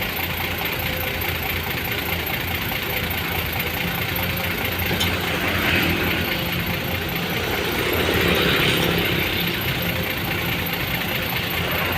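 A vehicle engine running steadily at idle, with a low hum that swells slightly partway through.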